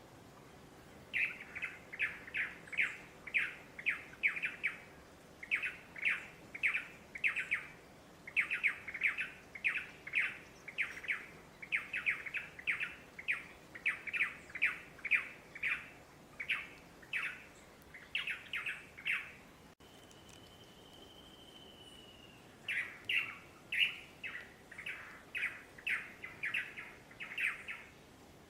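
Unseen birds calling, agitated: long runs of short, harsh, repeated calls at about three a second, broken by brief pauses, with one drawn-out whistle about two-thirds of the way through.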